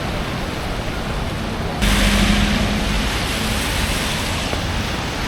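Steady rain with street traffic noise. About two seconds in it turns abruptly louder and hissier, with a low hum from a vehicle for a second or so.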